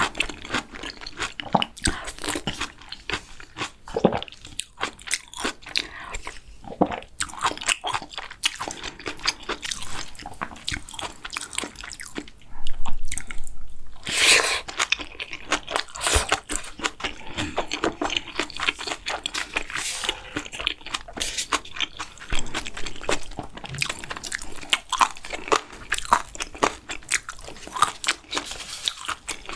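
Close-miked eating sounds: a person chewing and biting mouthfuls of food, a dense run of short crunches and mouth clicks, with a louder stretch about twelve to fifteen seconds in.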